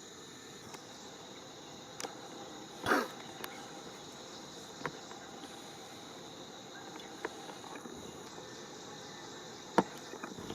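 Crickets chirring steadily at a high pitch. A short louder noise comes about three seconds in, a sharp click comes near the end, and a few fainter clicks fall in between.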